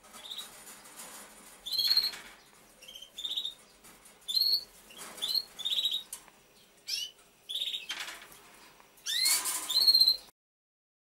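A small bird chirping: a series of short, separate calls, about a dozen, with a louder run near the end. The calls stop abruptly about a second before the end.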